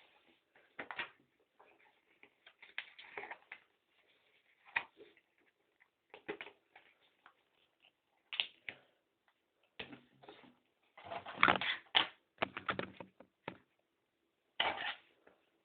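Irregular clicks, taps and rustles in short scattered bursts, the loudest and busiest cluster about eleven to twelve seconds in.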